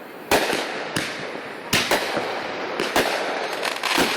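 Fireworks going off: about five sharp bangs spaced roughly a second apart, the first and loudest about a third of a second in, with smaller pops between them.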